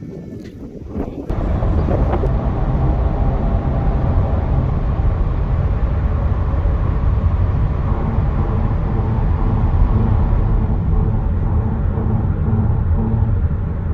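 Engine running steadily with a loud, low rumble that starts suddenly about a second in.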